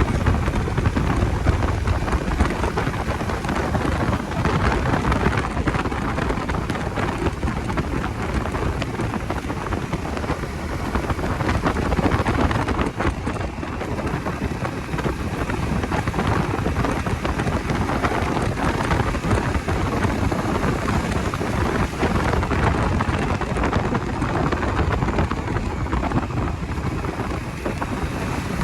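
Steady wind rush and buffeting over the microphone of a Bajaj Dominar 250 motorcycle being ridden, an even noisy roar with a heavy low rumble.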